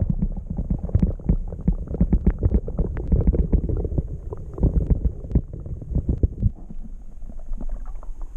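Muffled underwater sound as heard by a submerged camera microphone: a low rumble with many small knocks and sloshes of water moving around it, easing a little after about six and a half seconds.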